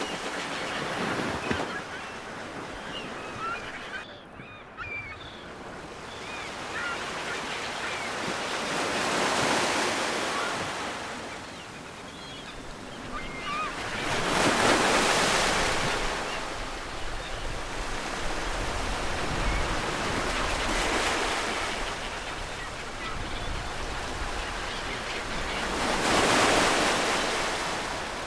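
Ocean surf: waves breaking and washing up the shore, swelling and fading about every five to six seconds.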